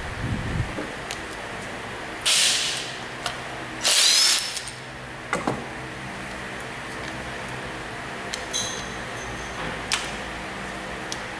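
Workshop sounds: a steady machine hum, with two short, loud bursts of air hissing about two and four seconds in and a few sharp clicks.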